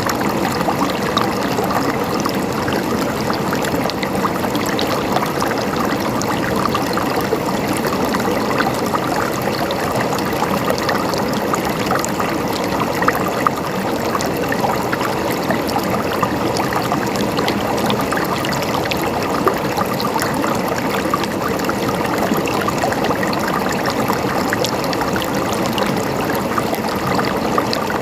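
River water flowing steadily over stones, a constant splashing rush with many small crisp splashes.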